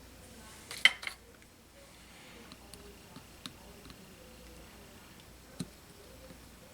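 Small hard tools and parts being handled and set down on a workbench: a brief clatter of clicks about a second in, a few light ticks after it, and one sharp knock near the end.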